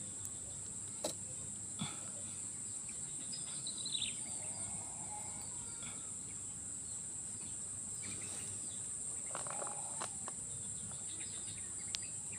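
Steady high-pitched buzz of an insect chorus, with a few faint clicks and a brief falling bird chirp about four seconds in.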